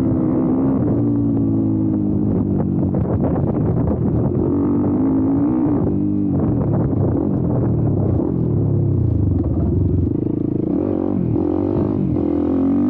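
YCF Bigy 190 Daytona pit bike's single-cylinder four-stroke engine running under way, its pitch rising and falling repeatedly with the throttle.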